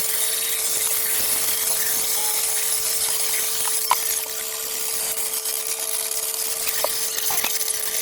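A power tool running steadily, a constant whine over a hiss, with a few light clicks partway through.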